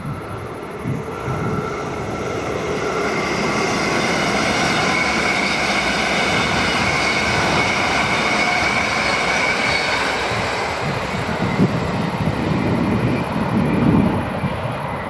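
A train passing on the line: a steady rushing noise with a faint high whine that swells over the first few seconds, then heavier low thuds near the end.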